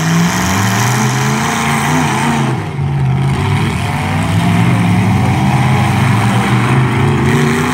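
Demolition derby trucks' engines revving hard, the pitch rising and falling as they are pushed.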